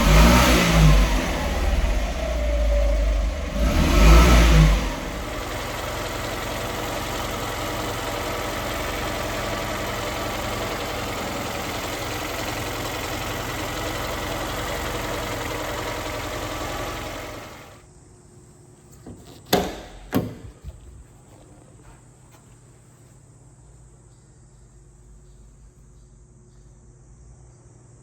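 1987 Honda Acty mini truck's small two-cylinder engine revved twice, then idling steadily until it is switched off about two-thirds of the way through. Two sharp knocks follow soon after, then a quiet background.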